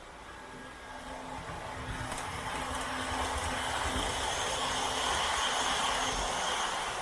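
N-scale model train running along the track: a whirring rattle of motor and wheels that grows steadily louder as it approaches, with a high whine in the loudest stretch past the middle, then eases slightly near the end.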